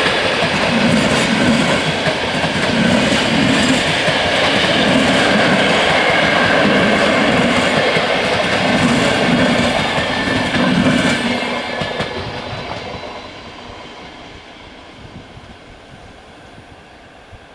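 Intercity passenger train passing the crossing, its wheels clattering over the rail joints in a regular rhythm, then fading away as it recedes from about twelve seconds in.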